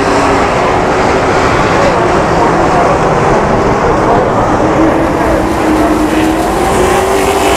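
Racing trucks' engines running hard around a short oval track: a loud, dense, steady engine noise with several engine notes wavering up and down as the field passes.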